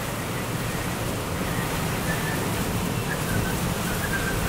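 Steady rushing noise of storm wind and rain, with no break or change.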